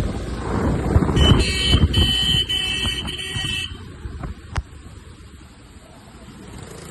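A vehicle horn sounds a high steady tone for about two and a half seconds, with a short break or two, over wind rushing on the microphone and road rumble. A single sharp click comes near the end.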